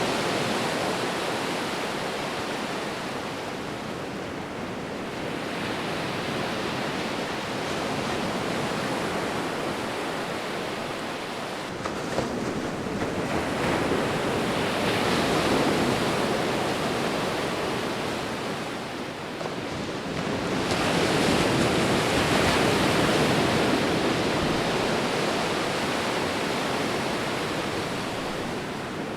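Sea waves breaking and washing on the shore, a continuous surf that swells and recedes every several seconds.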